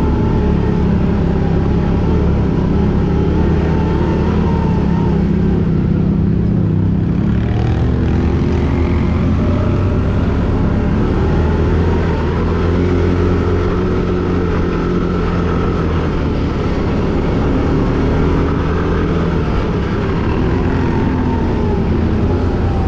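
ATV (quad bike) engine running loud and continuously under riding load, its pitch rising and falling with the throttle.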